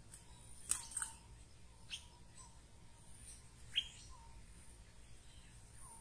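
Faint bird calls: a few sharp, quick chirps, the loudest about four seconds in, with short lower notes now and then and faint high whistles.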